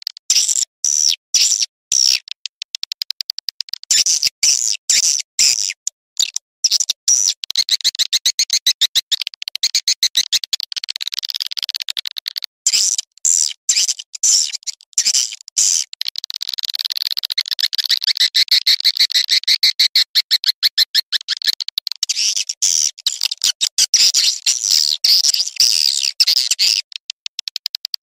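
Recorded swiftlet lure call, the 'ratu' (queen) call played to attract edible-nest swiftlets: a fast, dense high twittering of chirps and clicks with short breaks.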